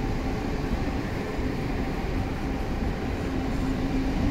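Taiwan Railways E1000 push-pull Tze-Chiang express train pulling out of a station at low speed, its passenger coaches rolling past: a steady rumble of wheels on rail with a faint steady hum, growing a little louder near the end.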